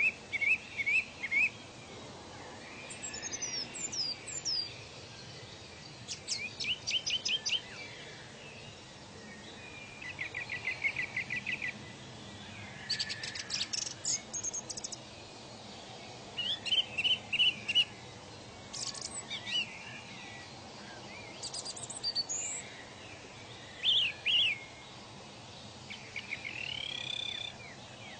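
Birds singing: short, high trilled and whistled phrases, one every two or three seconds, over a steady background hiss.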